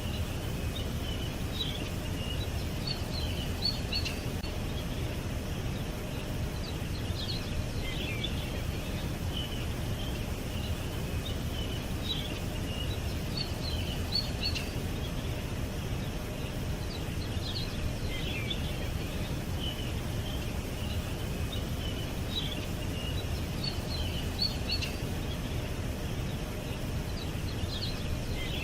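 Small songbirds chirping and twittering in short high bursts every few seconds, over a steady low rumble of background noise.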